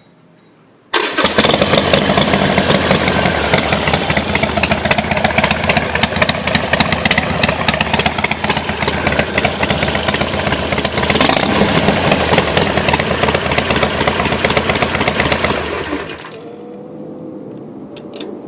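Harley-Davidson Iron 883's air-cooled V-twin breathing through a RUSH Baloney Cut exhaust with 1.5-inch baffles, starting up suddenly about a second in and running loud. About sixteen seconds in the sound drops to a much lower level.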